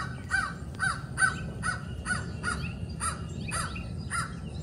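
Recorded crow caws played back through a Bluetooth speaker: a steady series of short, harsh caws, about two or three a second, used to unsettle a hawk.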